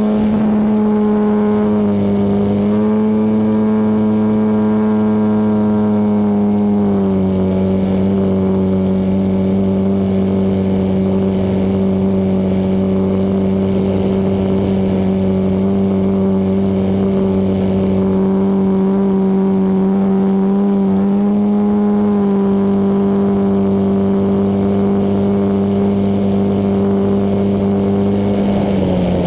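Desert Aircraft DA100 twin-cylinder two-stroke gasoline engine of an RC aerobatic airplane running steadily in flight, heard from on board. Its pitch rises a little about two seconds in, drops about seven seconds in, rises again a little after twenty seconds and dips briefly near the end as the throttle changes.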